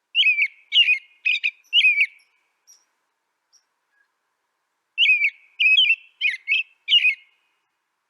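A songbird singing two short phrases of four quick, sweeping chirps each, a few seconds apart.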